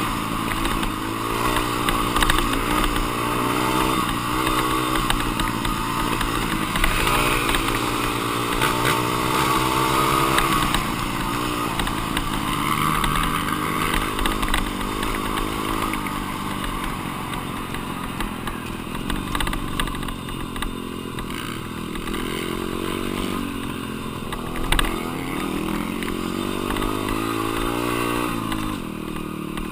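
Dirt bike engine revving up and rolling off over and over as it is ridden around a motocross track, its pitch climbing and falling every few seconds, with one sharp knock near the end.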